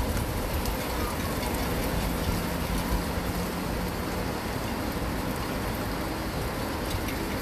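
Steady rain noise mixed with a low, even rumble of distant city traffic.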